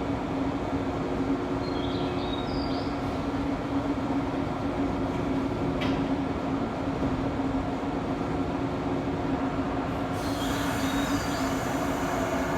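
Izukyu 2100 series electric train at the station, a steady low hum with short high-pitched squeals; a hiss comes in about ten seconds in.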